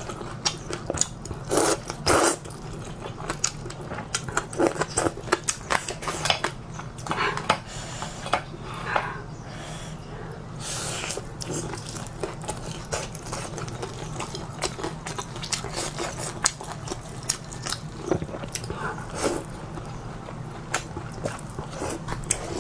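A person eating noodles close to the microphone: slurping them up and chewing, with many small wet clicks of the mouth.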